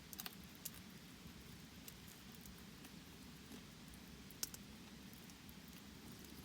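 Very quiet background with a few faint, sharp crackles or clicks: a small cluster just after the start, one more soon after, and a louder single click about four seconds in.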